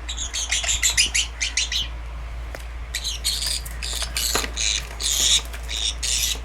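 Pineapple conure chirping and calling: a quick run of short high chirps for about two seconds, then a string of longer, harsher calls. A steady low hum runs underneath.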